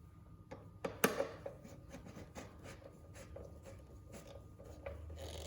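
Faint clicks and scraping of hands working a screw tight into an electric scooter's frame, with one sharper knock about a second in.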